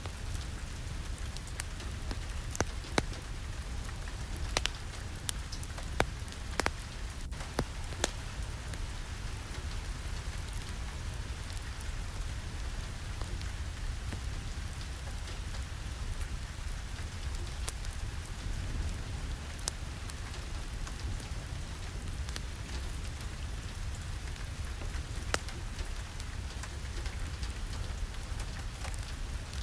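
Steady rain with a deep low rumble beneath it, and scattered sharp clicks of drops or pops, most of them in the first eight seconds.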